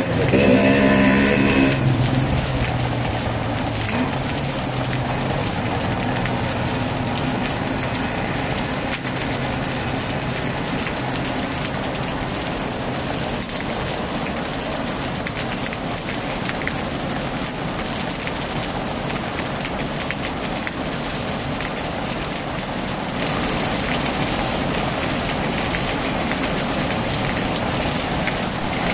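Heavy rain falling steadily, getting slightly louder about three-quarters of the way through. A pitched engine-like hum fades out in the first two seconds.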